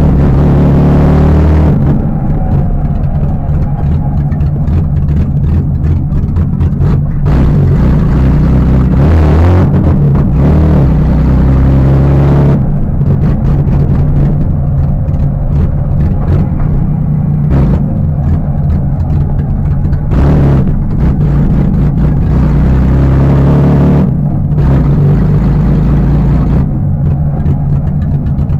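BMW E30 with an M50B25 2.5-litre straight-six, heard loud from inside the cabin, pulling through the revs and easing off several times while driving.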